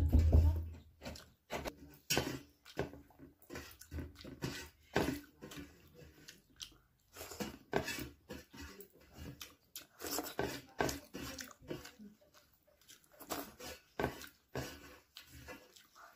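Close-miked chewing and mouth sounds of a person eating rice and chicken by hand, with many irregular short smacks and clicks. A low thump sounds right at the start.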